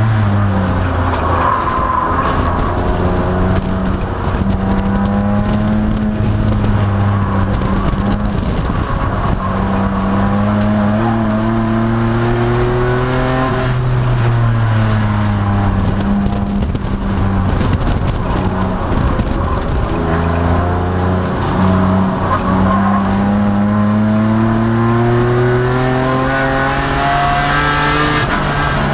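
2002 Nissan Maxima race car's 3.5-litre V6 at racing speed, its note climbing under acceleration and dropping back several times through gear changes and braking for corners, over steady road and tyre noise.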